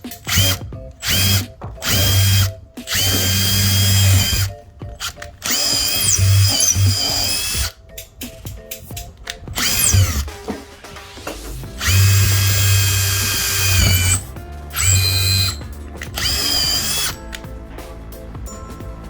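Electric power drill running in repeated short bursts, each spinning up quickly to a steady whine and then stopping.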